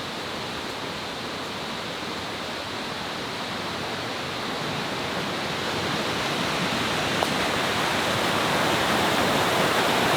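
Rushing water of small jungle waterfalls, a steady even rush that grows gradually louder through the clip as they come closer.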